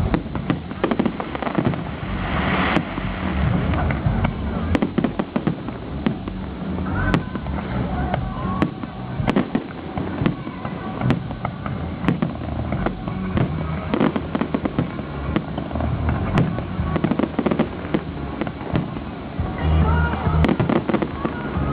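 Fireworks display: a rapid, irregular run of bangs and crackling bursts, with a short hissing burst about three seconds in. Music plays underneath.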